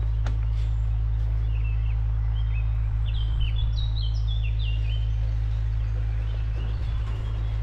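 A songbird sings a rapid, varied run of short high chirping notes through the middle, over a steady low rumble.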